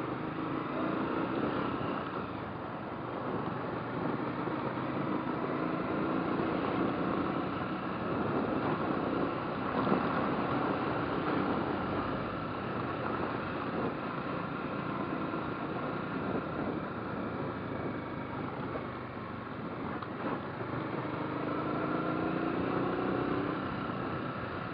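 Motorcycle engine running as it is ridden through traffic, under a steady rushing noise; the engine note climbs and falls near the start and again near the end.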